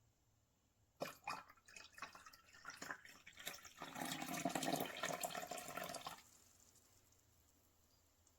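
Amazon Basics 5-cup drip coffee maker brewing: hot water sputtering and dripping, then a steadier run of liquid for about two seconds that stops suddenly.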